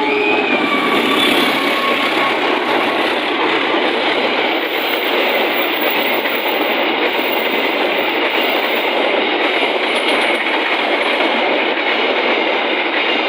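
Train passing at close range, a loud steady rush of wheels on rail with a clickety-clack over the rail joints, right after a horn blast.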